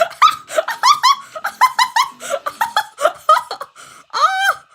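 A person laughing hard: a rapid run of short, high-pitched bursts, about five a second, ending in one longer drawn-out sound near the end.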